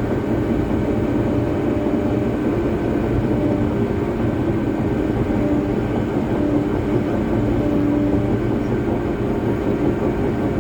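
Caterpillar D3 Next Gen crawler dozer working, its diesel engine running steadily and loud throughout.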